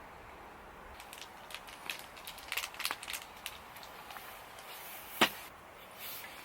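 A string of light clicks and knocks, then one sharp, loud knock about five seconds in.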